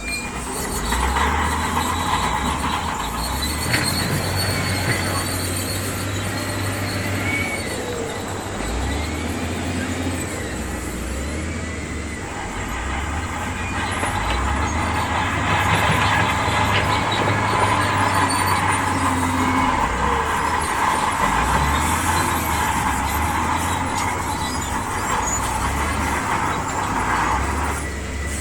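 Diesel engine of a heavy earthmoving machine working, its note rising and falling repeatedly as the load changes, with high metallic squeals over it.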